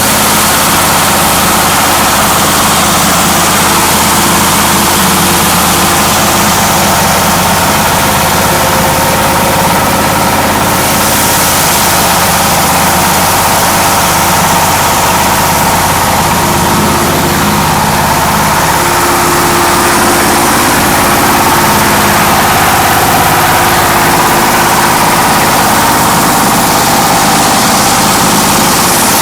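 A 24 HP diesel engine running a hammer mill, a steady loud mechanical drone with a rattling hiss on top. The hiss gets stronger about eleven seconds in, and the pitch shifts slightly a few seconds after that.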